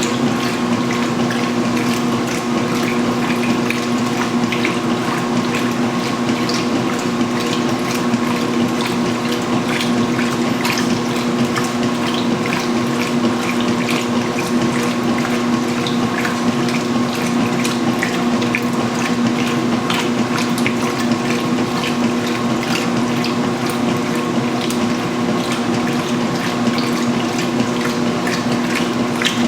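Huebsch (Speed Queen) commercial washing machine running steadily early in its cycle, water pouring and splashing into the tub over a constant hum.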